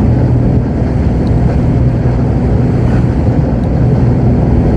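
Lorry's diesel engine and road noise droning steadily inside the cab while driving at a steady speed.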